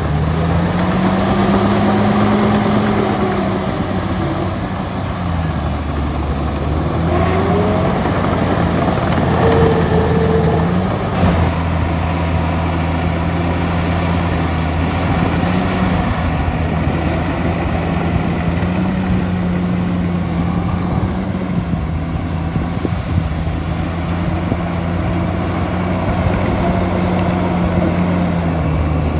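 Heavy diesel engine of earthmoving machinery running steadily, its low note rising and dipping a little now and then.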